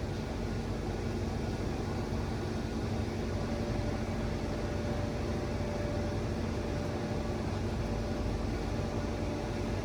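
Steady mechanical hum of a hydraulic truck dumper tilting a loaded tractor-trailer up to unload it, with a thin steady whine coming in about three seconds in.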